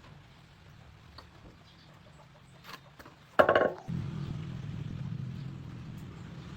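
A chicken squawks once, short and loud, about three and a half seconds in. Right after it, a low steady engine hum sets in.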